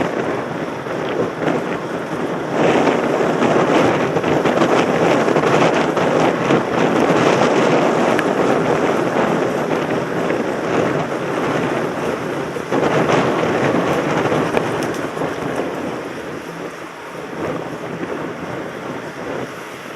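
Wind rushing over a mountain biker's helmet-camera microphone as the bike rolls along, easing off near the end.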